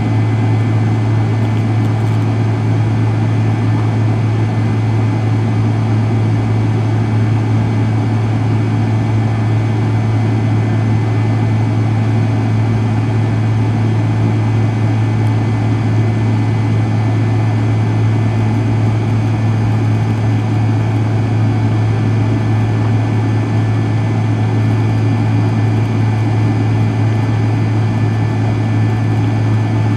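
Cabin noise of an MD-83 heard from a rear seat beside its tail-mounted Pratt & Whitney JT8D turbofans: a loud, steady engine drone with a strong low hum and a thin high whine, holding even with no change in thrust.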